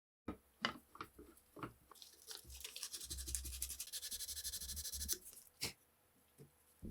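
Workshop handling sounds: a few sharp clicks and knocks, then about three seconds of fast, rhythmic scrubbing like a stiff brush worked back and forth on a part, ending with a couple more knocks.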